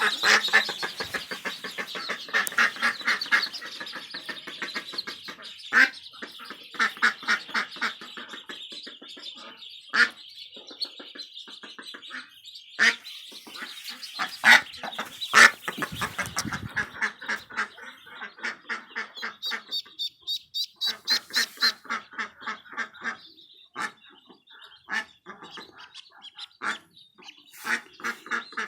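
Ducks quacking in rapid runs of short calls, over a constant high, thin peeping from ducklings.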